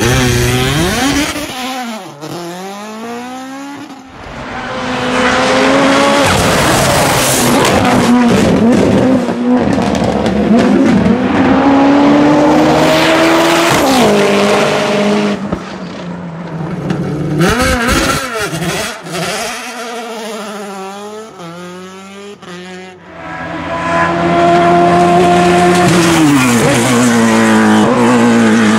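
Racing car engines at full throttle on a hillclimb course, several passes. The pitch climbs, breaks at each upshift and climbs again, then falls away as each car goes past; it quietens twice between cars.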